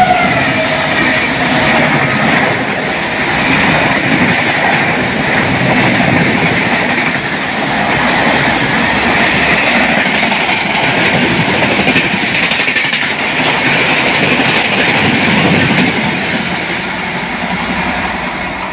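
Express passenger train running past at high speed: a loud, steady rush of wheels on rails and coaches, easing off over the last couple of seconds.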